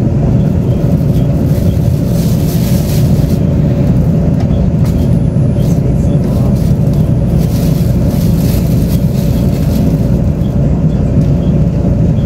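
Taiwan Railways Tze-Chiang express train running at speed, heard inside the passenger coach: a loud, steady low rumble of wheels on rail, with two brief swells of hiss about 2 and 8 seconds in.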